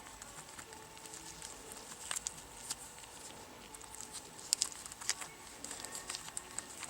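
Light, irregular clicking and ticking of hard 3D-printed plastic parts being handled and turned in the hands, with a few sharper clicks about two and four and a half seconds in.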